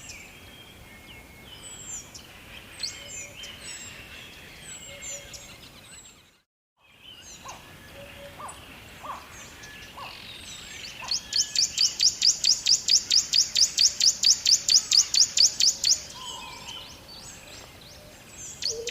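Songbirds chirping and whistling over a faint steady background hiss. Partway through, a loud, rapid trill of about seven notes a second runs for about five seconds. The sound cuts out completely for under a second about six seconds in.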